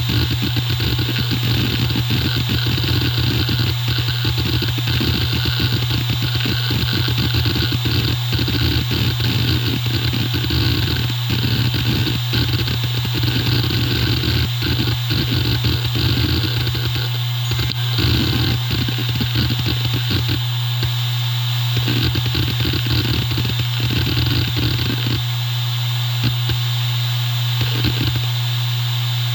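Hitachi Deskstar E7K500 7200 rpm hard drive running: a steady spindle hum under rapid, irregular clicking and chatter from the heads seeking. The seeking thins out to occasional clicks about twenty seconds in.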